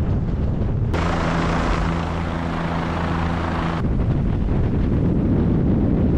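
Helicopter in flight: the rotor and engine make a low rumbling, pulsing noise. About a second in, the sound switches abruptly to a steadier droning hum with hiss, then cuts back to the rumble near the four-second mark.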